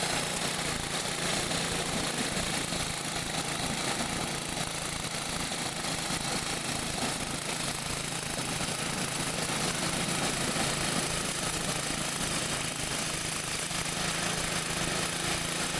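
A steady, unchanging mechanical hum with a constant low tone over a hiss, like a running engine or motor.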